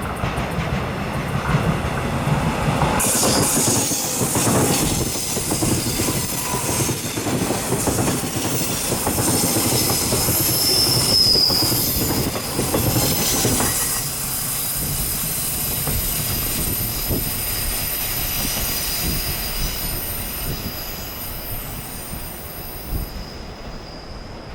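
Taiwan Railway local electric multiple-unit train running past, its wheels squealing with high steady tones from about three seconds in, over the rumble of the cars on the rails. The sound fades as the train moves away, and the squeal stops near the end.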